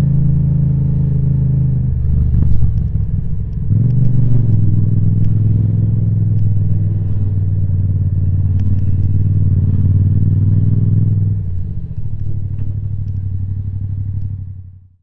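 Yamaha MT-07's parallel-twin engine through an Akrapovic titanium exhaust, running steadily. Its note changes about two seconds in, rises briefly about four seconds in, and drops near eleven seconds. The sound falls away sharply at the very end.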